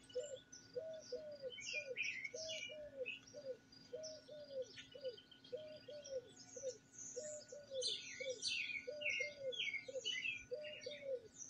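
A dove cooing over and over in three-note phrases, about one phrase a second, while small songbirds chirp higher up, busier in the second half.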